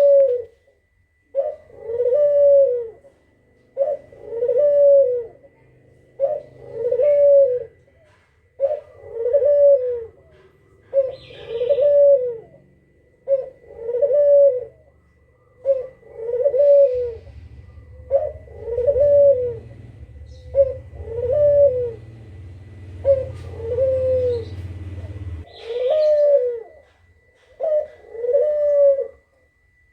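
Kugeruk bird calling over and over, a short note followed by a rising-and-falling coo, about every two and a half seconds: a recorded call played as a lure for wild birds.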